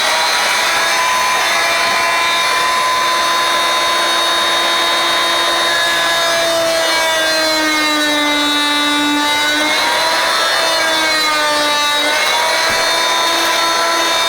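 Oscillating multi-tool running steadily while cutting a notch, a high buzzing whine whose pitch sags briefly under load about nine and twelve seconds in.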